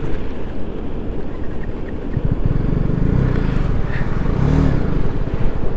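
Motorcycle engine labouring in low gear through a fast-flowing stream crossing. It revs up and eases off twice about midway, over a steady rush of water.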